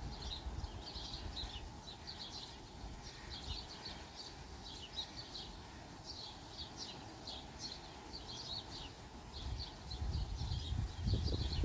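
Songbirds chirping repeatedly in quick short notes over faint outdoor background noise. A low, uneven rumble rises near the end.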